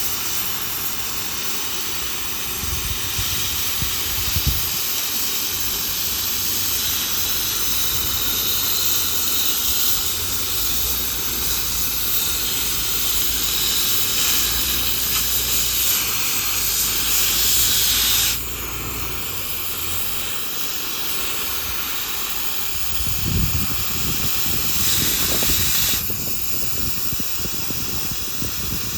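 Gas cutting torch hissing steadily as it burns through a steel excavator track chain link. The hiss drops abruptly about two-thirds of the way through and picks up again near the end.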